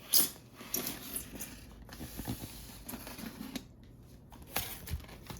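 A package being torn open and unwrapped: rustling and tearing of packaging, with a sharp rip just after the start and a few short knocks and crinkles after it.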